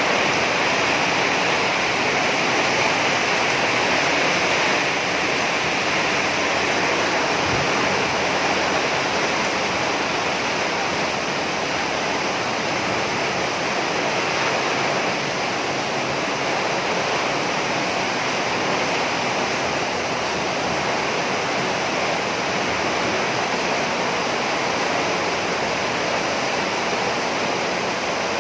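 Heavy rain pouring steadily on a roof, a dense unbroken hiss.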